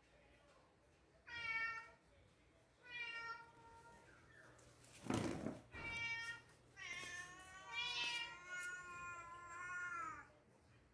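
An animal calling four times in pitched cries, the last one drawn out for about three seconds, with a short rushing noise about five seconds in.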